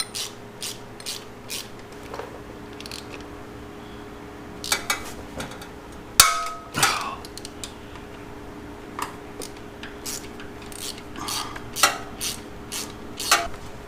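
Metal starter parts and hand tools clinking and clattering on a workbench: scattered sharp clicks and taps, with one louder metallic clank that rings briefly about six seconds in. A faint steady hum runs underneath.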